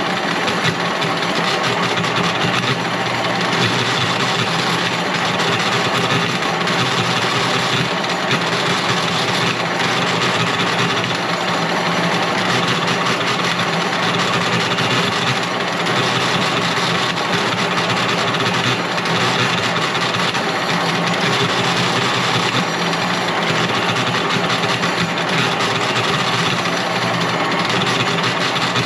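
A machine's motor running steadily and unbroken.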